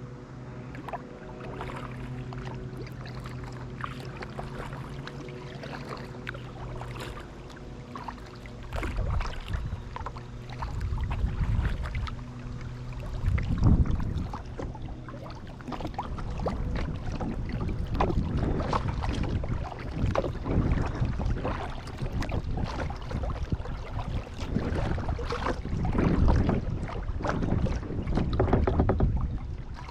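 Kayak paddling on a pond: paddle blades dipping and splashing, with low rumbles close to the camera. For the first several seconds a steady low hum lies under quieter water sounds, and the paddle splashes grow louder and more frequent from about eight seconds in.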